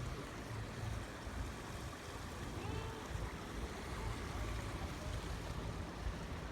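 Wind rumbling and buffeting on the microphone over a faint outdoor background.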